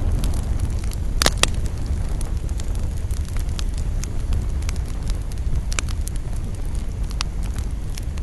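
Campfire crackling, with scattered sharp pops and a pair of louder snaps a little after a second in, over a steady low rumble.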